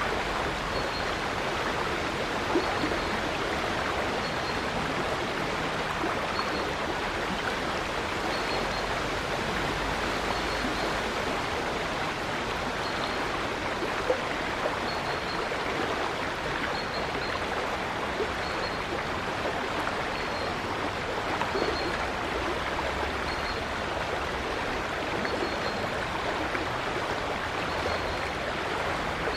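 River water flowing in a steady, even rush, with a faint high chirp repeating about once a second.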